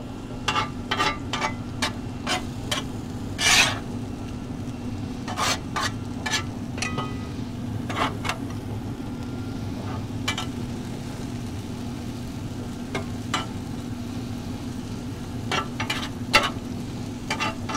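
Shredded beef and sliced onions sizzling on a pellet grill's flat skillet, with a metal spatula scraping and tapping across the steel many times as the meat is turned and spread. The strokes are fewer through the middle, over a steady low hum.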